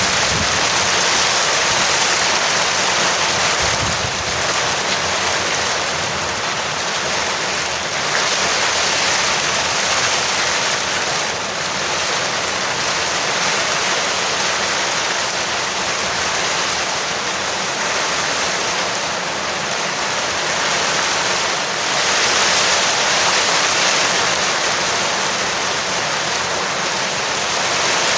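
Heavy rain falling on a porch roof: a steady, dense hiss that swells slightly a couple of times.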